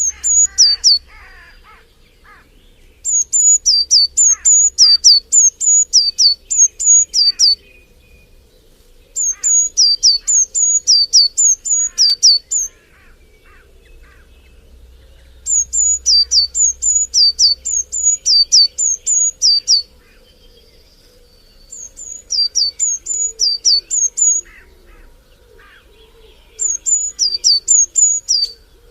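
A bird singing loud, high-pitched bouts of rapid, sharp down-slurred notes, about three a second, each bout lasting three to four seconds with short pauses between them. Fainter chirps of other birds sound underneath.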